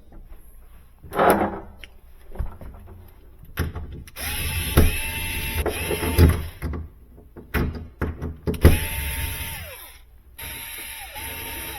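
A cordless drill/driver run in a series of short bursts, its motor whining at a steady pitch and spinning down at the end of each burst, with knocks and handling clatter between runs.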